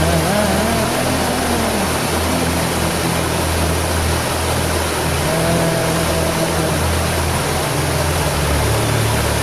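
Waterfall rushing in a steady, loud roar, with soft music playing underneath.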